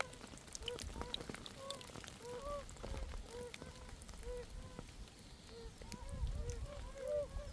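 Oriental fire-bellied toads calling in chorus: short, low, rising-and-falling notes about twice a second from several animals, overlapping more thickly near the end.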